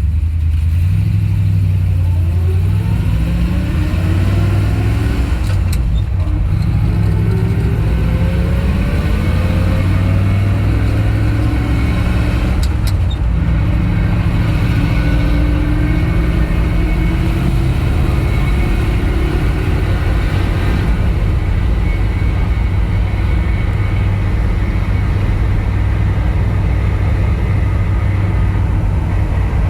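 1962 Dodge D-series truck's engine and road noise while driving: the engine note climbs several times over the first twenty seconds as the truck accelerates, then settles into a steady drone. Two brief clicks come about six and thirteen seconds in.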